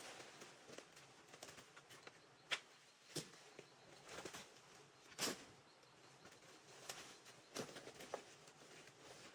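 A few scattered soft knocks and taps over a faint steady hiss, the clearest about two and a half, three and five seconds in.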